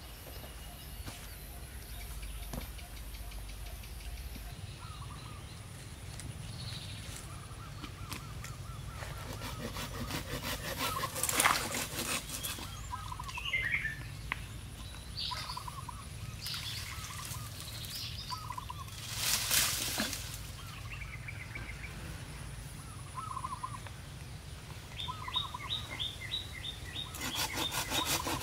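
Wild birds calling with short chirps here and there, one giving a quick run of notes near the end, over a quiet outdoor background, with two brief louder noises about a third and two thirds of the way in. Near the end a hand saw starts cutting wood with even back-and-forth strokes.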